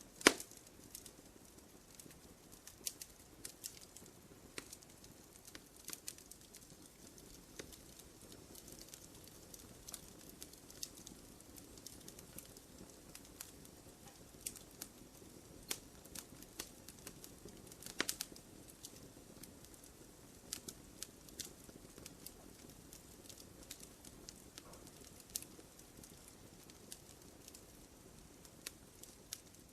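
Wood fire crackling in a fireplace: irregular sharp pops and snaps over a soft low rustle of burning. A loud pop comes just after the start and another about eighteen seconds in.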